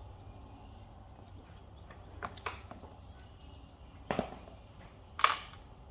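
A few sharp clicks and knocks of parts being handled during an ignition coil swap on the engine, the loudest a little after five seconds in, over a steady low hum.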